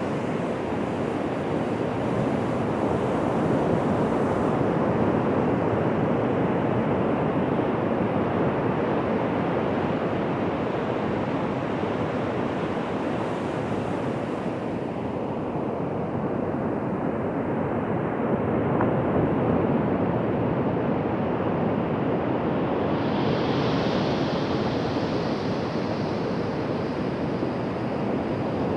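Ocean surf breaking and washing onto a beach: a continuous rushing noise that swells and eases a little.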